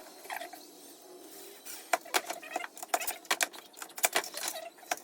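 Irregular sharp clicks and light knocks, sparse at first and coming thick and fast from about two seconds in, like small hardware and tools being handled.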